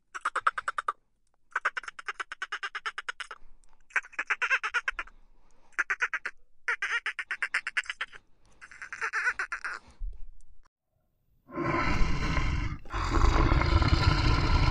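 Animal calls: six bouts of rapid, evenly pulsed, quack-like calls, each lasting about a second, followed near the end by a louder, rough, continuous call.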